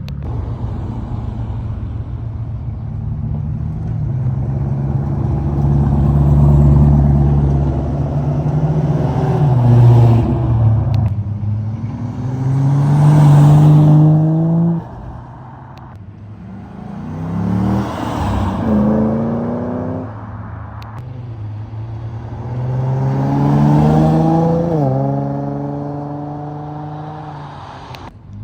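Cars driving off one after another, their engines revving up through the gears: several loud pulls, each rising in pitch and then dropping at a gear change.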